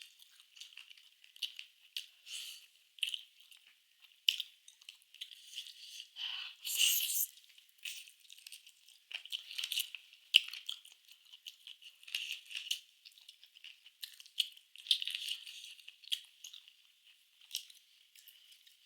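A person chewing food close to the microphone: a run of short, irregular wet clicks and small crunches, with one longer, louder sound about seven seconds in.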